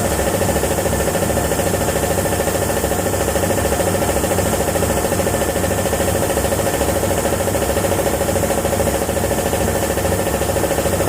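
A motor running steadily with an even hum and a fast, even pulsing.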